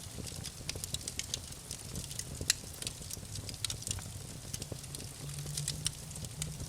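Wood fire crackling in a fireplace: irregular pops and snaps over a low steady rumble, with one louder snap about two and a half seconds in.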